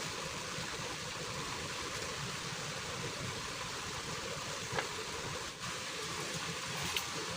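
Heavy rain falling steadily, an even hiss, with two brief ticks in the second half.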